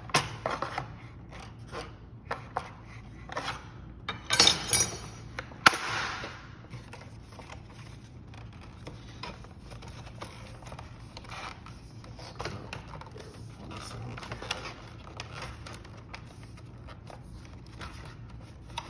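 A double-hung window's jamb section being pried and worked loose by hand: scattered clicks and scrapes of hard parts, with a cluster of louder clicks about four seconds in and a sharp snap soon after.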